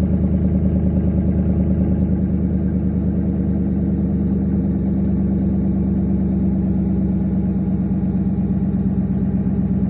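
Straight-piped exhaust with side-exit tips idling steadily after a cold start, a loud, even low exhaust note with no revving.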